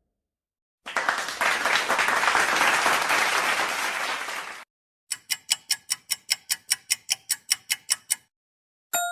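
A group of people clapping for about four seconds. After a short gap comes a clock ticking quickly and evenly, about five ticks a second, for about three seconds. A bright chime sounds right at the end.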